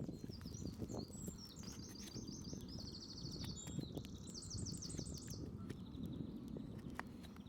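A songbird singing fast trills of rapidly repeated high notes, twice, over a steady low rumbling noise with a few faint clicks.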